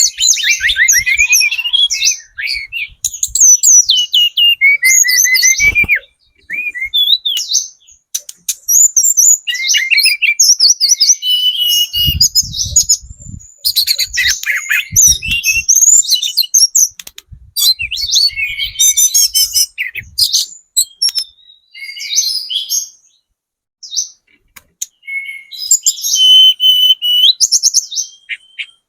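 A tledekan gunung (mountain flowerpecker) singing: bursts of high, rapid chirps and quick trills, broken by short pauses.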